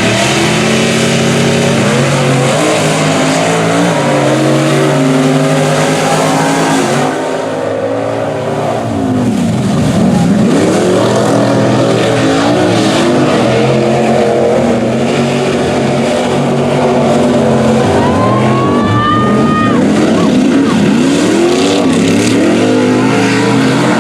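Mud racing truck engines running hard at high revs, their pitch repeatedly climbing and dropping as the throttle works. Several engines overlap, and a high whine rises and falls about three quarters of the way through.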